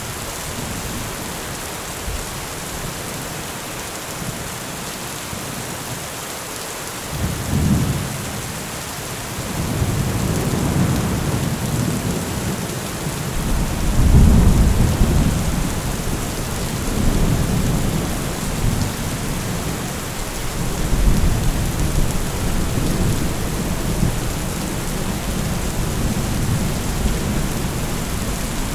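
Heavy rain falling steadily, with thunder rolling in low about seven seconds in. The loudest roll comes about halfway through, and a few more follow.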